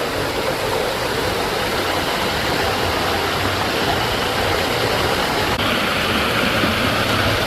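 Water rushing and splashing steadily from a water-park water feature, a loud even hiss that brightens a little about five and a half seconds in.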